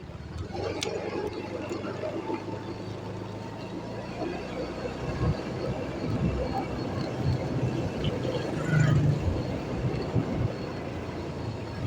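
Motorcycle engine running with a steady low hum under road noise, with a single sharp click about a second in.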